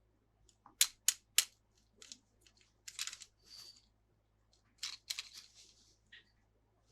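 Hands working a toy and its packaging: three sharp clicks about a second in, then short bursts of packaging rustling.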